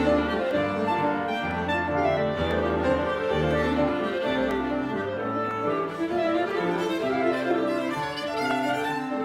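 Chamber trio playing a contemporary classical piece: bowed string lines over piano, with held, overlapping notes. Low sustained notes fill roughly the first half, then thin out.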